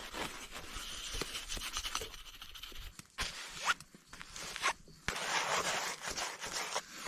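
Irregular scraping and rubbing strokes with a few sharp clicks, busiest in the second half.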